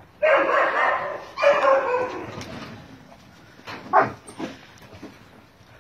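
Doberman dogs barking and yelping: two loud, drawn-out outbursts in the first two seconds, then a few short yelps about four seconds in.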